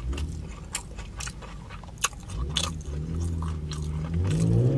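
Close-miked chewing of a sushi burrito, with wet mouth clicks and smacks. A low hum comes in during the second half.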